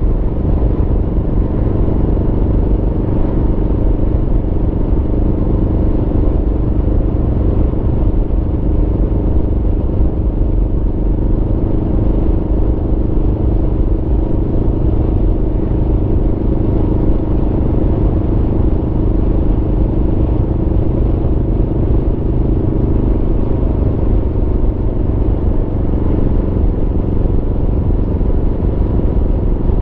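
Aprilia Tuono V4 motorcycle's V4 engine running at a fairly steady speed on the move, with a low rumble underneath.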